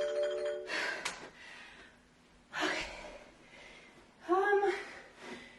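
A woman panting and gasping for breath after an all-out set of jump lunges, with a louder voiced sigh about four seconds in. A steady ringing tone dies away in the first second.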